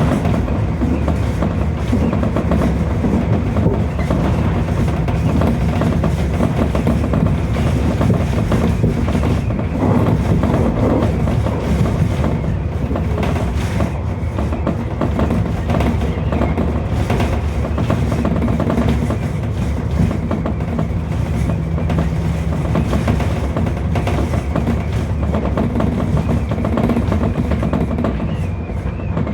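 Running noise of a Tobu 30000 series electric train at speed, heard from inside the car: a steady rumble of wheels on rail. A faint whine rises in near the end.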